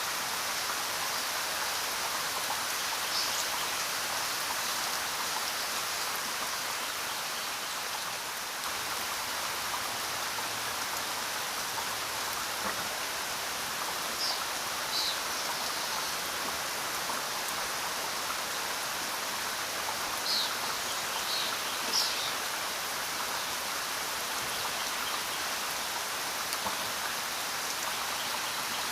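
Steady rain falling as an even hiss, with a few louder single drops standing out now and then.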